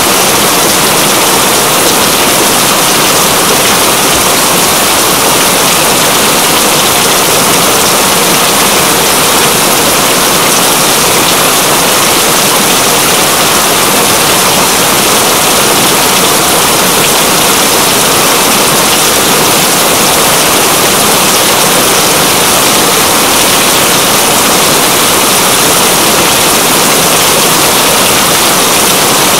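Steady heavy rain: a loud, dense, even hiss with no let-up.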